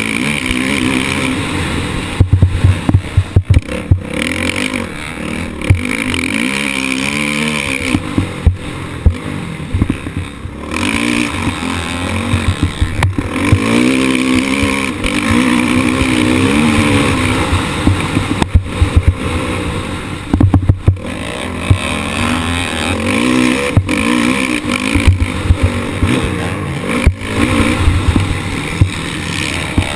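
Motocross bike engine revving up and down again and again, rising and falling in pitch through the throttle and gears, close on the onboard microphone. Frequent sharp knocks and clatter cut through the engine sound.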